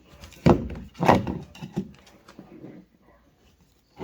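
Two heavy thumps about half a second apart, followed by a few lighter knocks and rattles as objects are handled.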